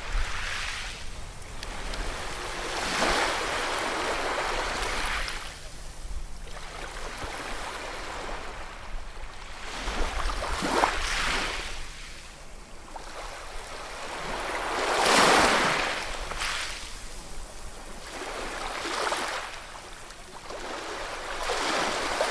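Ocean waves breaking and washing up a shore, swelling and fading one after another every few seconds, with the loudest rush about fifteen seconds in.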